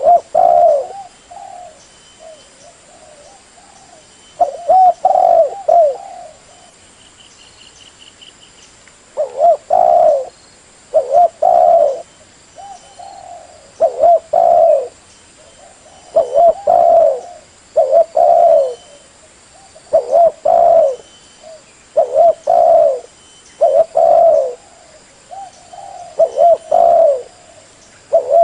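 Spotted dove (tekukur) cooing: repeated coo phrases every second or two in runs, with pauses of a few seconds between runs.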